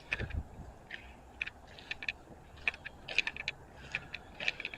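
Footsteps crunching on gravel and debris, a short sharp crunch about every half second, with a dull thump near the start.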